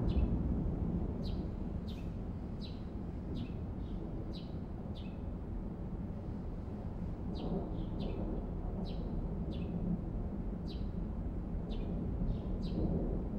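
A small bird chirping over and over, short falling chirps about one to two a second, some in quick pairs, over a steady low outdoor background rumble.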